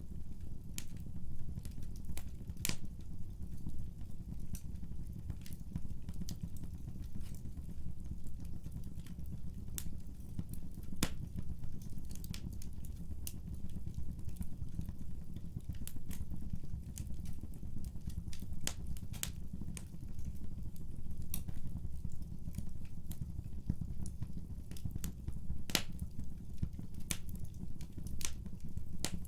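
Wood fire burning in a fireplace: a steady low rumble with irregular sharp crackles and pops, several a second, a few of them much louder.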